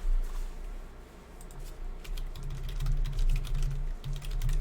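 A quick run of light clicks and taps that grows denser after the first second or so, over a low hum that comes and goes.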